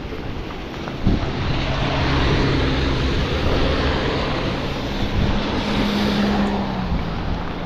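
A motor vehicle's engine hum, steady with a slightly rising tone late on, over loud rushing wind and rain noise.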